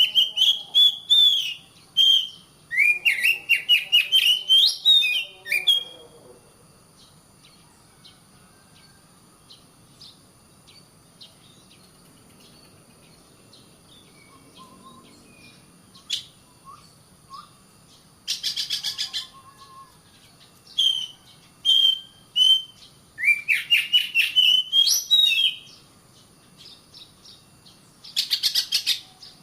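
Oriental magpie-robin (kacer) singing: loud whistled phrases, rising trills and fast chattering notes in bursts. The song breaks off for about ten seconds after the first six, with only a few faint notes, then starts again in several bursts.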